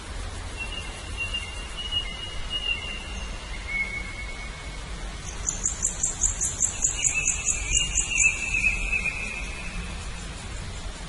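Birds calling: long, thin, steady whistled notes, and in the middle a quick run of about ten high chirps, over a low steady rumble.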